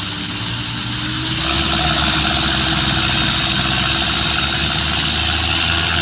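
Tractor diesel engine running, then opening up about one and a half seconds in and holding at a louder, heavier note as it strains to pull a loaded trolley.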